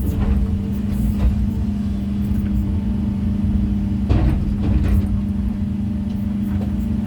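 Excavator's diesel engine running steadily during natural-stone placing work, with a few sharp knocks from stones or the bucket about a second in and about four seconds in.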